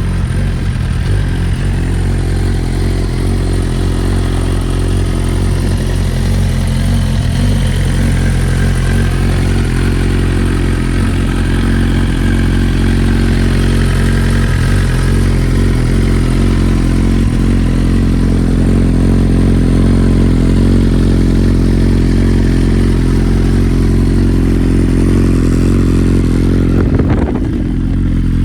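2009 Suzuki GSX-R1000's inline-four engine idling steadily.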